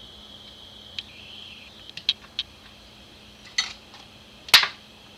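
Small metal parts being handled and set down on a workbench: a handful of sharp clicks and taps, the loudest near the end.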